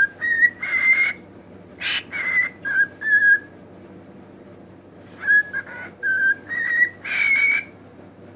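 Pet bird whistling and calling in short repeated notes, with a few louder, harsher screechy calls about two seconds in and again about seven seconds in. A short pause falls midway between the two bouts.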